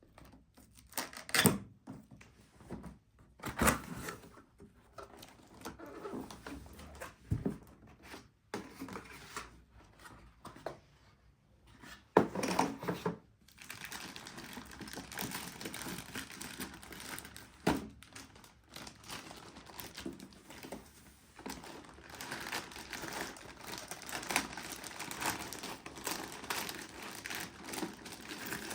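Crinkling and tearing of packaging as it is handled, with scattered knocks and clatters in the first half, then continuous rustling about halfway through.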